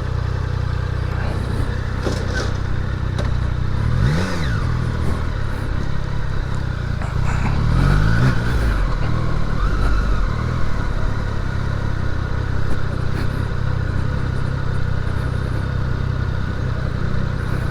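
Triumph Daytona 660's three-cylinder engine running at low revs. The throttle is blipped briefly about four seconds in and again around eight seconds, the pitch rising and falling back each time.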